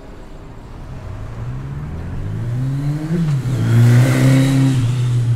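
An engine growing louder and rising in pitch, dropping back about three seconds in, then running loud and steady.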